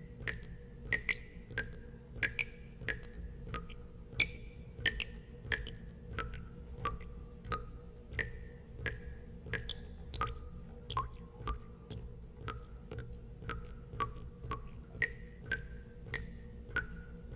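Water drops falling one after another into water, each a short plink with a brief ringing note of varying pitch, about two a second, over a steady low hum.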